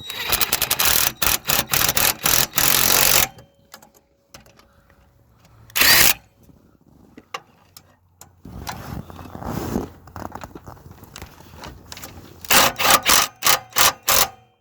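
Ratchet wrench clicking in quick runs as engine mount bolts are tightened, with a short loud metal knock about six seconds in.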